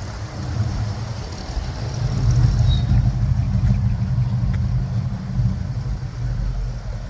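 Car engine and road noise from a vehicle on the move: a steady low drone that swells slightly a couple of seconds in.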